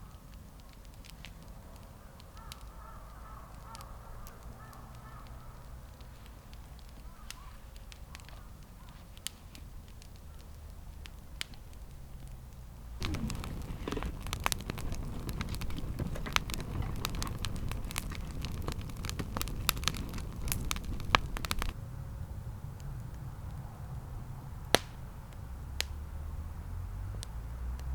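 Sharp crackles and pops, sparse at first. About halfway through a dense stretch of crackling over a hiss starts suddenly and cuts off abruptly about three-quarters of the way in.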